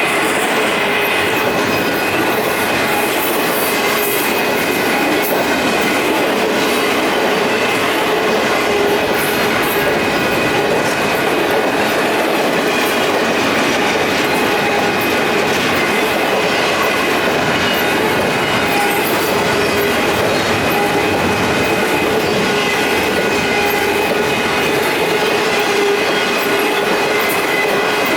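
Cars of a Union Pacific intermodal stack train rolling past: a steady, loud run of steel wheels on rail with scattered clicks over the rail joints and thin, steady squeal tones above it.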